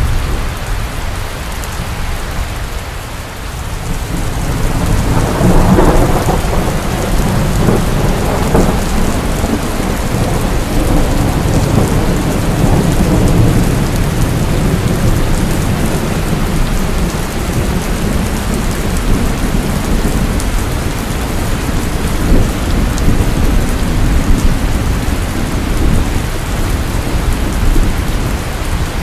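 Heavy rain pouring steadily, with thunder rumbling. A rolling rumble swells about five seconds in and fades out slowly beneath the rain.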